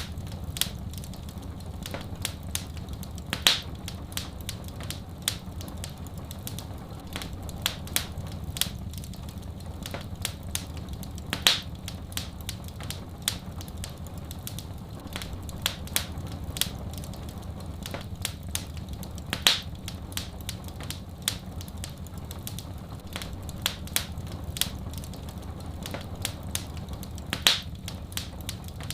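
Wood fire crackling, with dense small pops and snaps over a steady low rumble. A louder pop comes about every eight seconds.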